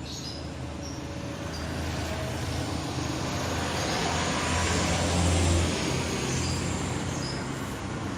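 Strong wind rushing through trees, rustling the leaves, swelling into a gust about four to six seconds in and then easing, over a steady low rumble.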